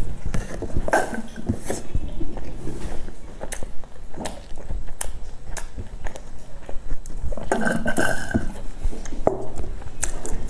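Close-miked chewing and mouth sounds of someone eating soft pastry, with scattered sharp clicks and taps of a spoon in a plastic cup.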